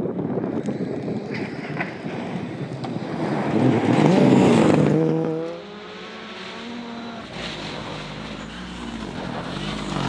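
Rally car engines on a gravel stage: a car passes close and loud about four seconds in, with its engine note climbing as it revs, then a sudden change to a quieter engine holding steady and revving up again near the end.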